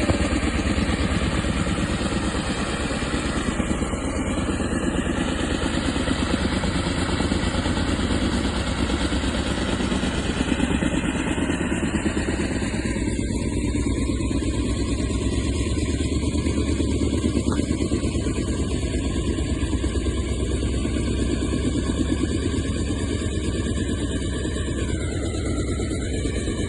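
Helicopter running steadily, its rotor beating fast and continuously under the engine sound, with a faint high whine that drops slightly about ten seconds in.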